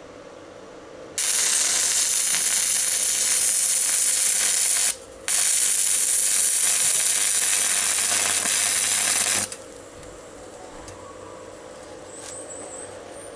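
Loud, even hissing crackle in two long bursts of about four seconds each, each starting and stopping abruptly, with a short break between them.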